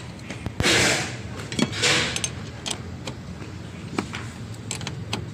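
Clicks, knocks and rustles of the fuel pump assembly and its parts being handled and fitted back in place, with two louder swishing noises in the first two seconds and scattered sharp clicks after.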